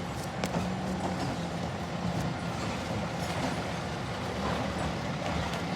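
Garbage truck's engine running steadily close by, a constant low hum under a broad rumble.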